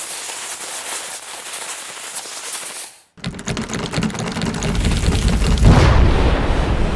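Sound-effect fuse hissing and sparking. After about three seconds it switches to dense crackling that swells into a low rumbling blast near the end, as the TNT block explodes into smoke.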